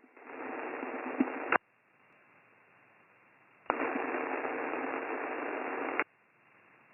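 Transmitted audio from a Guohetec Q900 V4 transceiver heard through an SDR receiver: two bursts of band-limited hiss with a faint steady hum tone, each starting and stopping abruptly with a click as the transmitter keys and unkeys. In between is a faint receiver background. The hiss comes from a Shure SM58 microphone with the gain set to 41 and no close speech.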